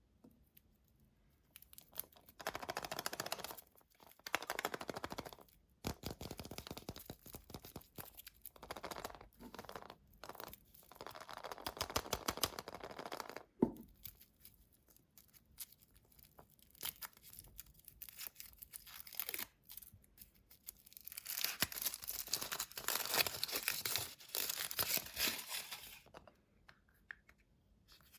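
A surprise egg's wrapper being torn open and crinkled by hand in several bouts, with pauses between them and a single sharp click about fourteen seconds in.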